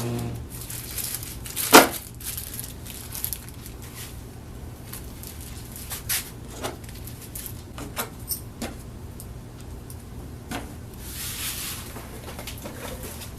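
Scattered knocks and clacks of wood and hardware being handled over a steady low hum, the sharpest knock about two seconds in, with a short hiss of rubbing or sliding near the end.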